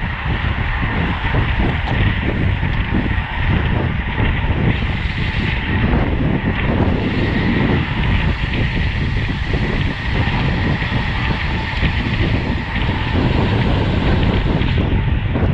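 Wind rushing over the microphone of a camera on a road bicycle racing at speed, a steady loud buffeting with the hiss of tyres on the road underneath.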